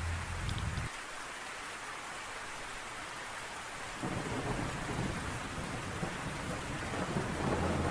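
Heavy rain pouring down with thunder rumbling low; the rumble dies away about a second in and comes back, growing, from about four seconds in.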